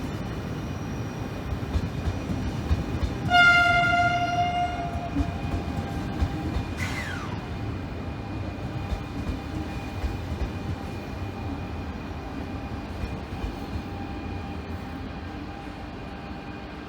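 A train moving through the station with a low rumble and wheel clatter. A single horn blast of about a second and a half sounds a few seconds in, and the rumble slowly fades toward the end.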